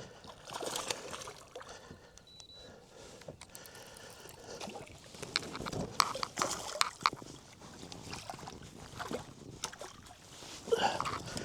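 Light water splashing with scattered knocks and clicks against a kayak as a hooked bass is fought and brought to the boat.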